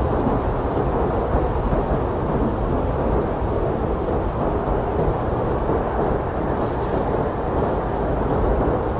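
Blizzard wind blowing hard and steadily, a deep, unbroken rush with a low rumble and little hiss on top.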